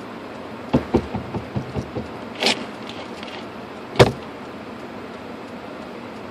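A quick run of light knocks as snow and ice are cleared off a car's windshield wiper, then a short swish, and one heavy car-door thump about four seconds in.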